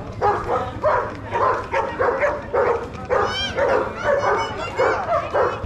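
A dog barking over and over, about three barks a second, with a few high whining yelps a little past halfway.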